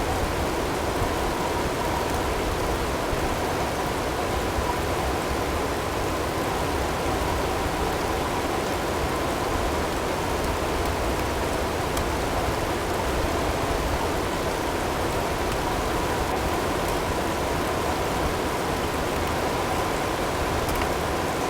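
Blizzard ambience: a steady rush of wind-driven snow and hail. A faint steady tone sits underneath.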